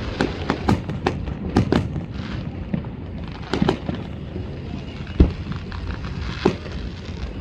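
Fireworks going off: a rapid, irregular run of sharp pops and bangs over a low rumble, the loudest bang about five seconds in.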